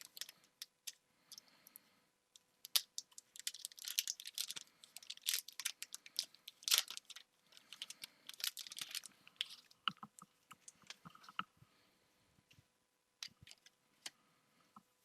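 Pokémon trading cards and a foil booster-pack wrapper being handled: a string of crinkles, crackles and small clicks, busiest for about the first ten seconds and thinning out after that.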